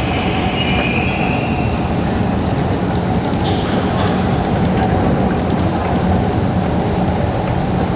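Singapore MRT train running at an elevated station platform: a steady low rumble, with a brief hiss about three and a half seconds in.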